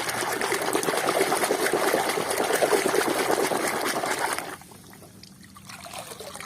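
Water running and splattering as a muddy toy vehicle is rinsed clean; the water stops about four and a half seconds in.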